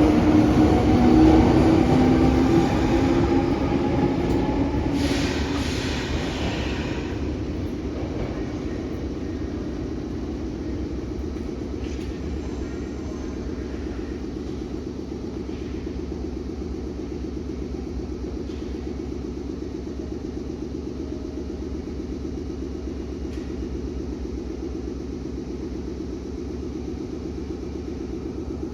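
Meitetsu electric commuter train running into the platform: motor whine and rail rumble, loud at first and dying away over several seconds, with a brief hiss of air about five seconds in. After that comes a steady hum.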